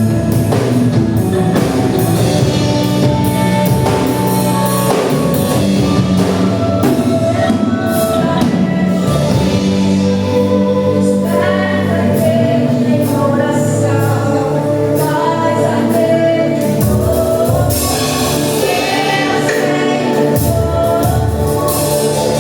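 Live gospel worship music: a church band with drums accompanying singers.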